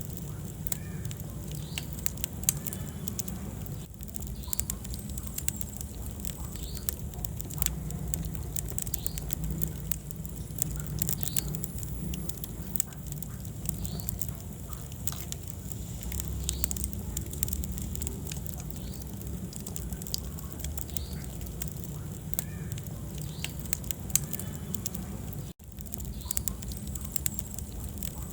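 Wood fire burning in a fireplace: irregular crackles and pops over a low, steady rumble of flames. The sound cuts out for an instant near the end.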